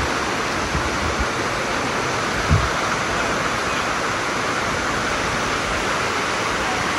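Waterfall water rushing steadily over the rocks of Dunn's River Falls, with one brief low thump about two and a half seconds in.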